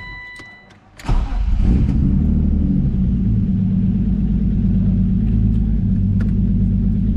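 Turbocharged BMW E36 M3 straight-six started from cold, catching about a second in with a brief flare of revs, then settling into a steady idle.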